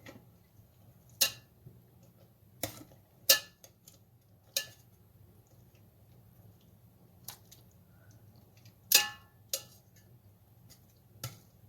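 Metal kitchen utensils clinking and knocking against cookware while cooked chicken thighs are moved into a wok: about eight separate sharp clinks at irregular intervals, some ringing briefly.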